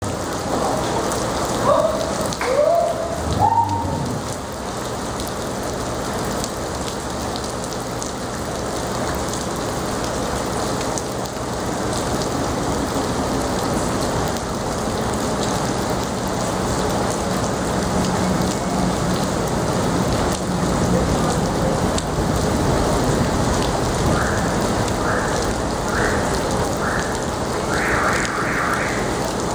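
Steady heavy rain falling on a flooded street, an even hiss of water throughout. A few brief gliding sounds come in the first seconds, and short high-pitched sounds repeat about once a second near the end.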